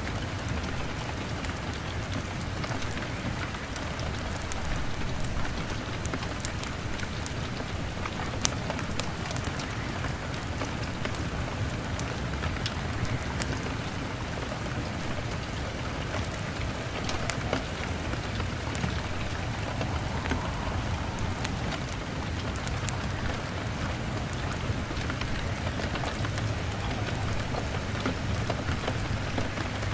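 Steady rain beating on a window pane over a low, steady rumble, with many sharp crackles or ticks scattered throughout, typical of a log fire burning alongside.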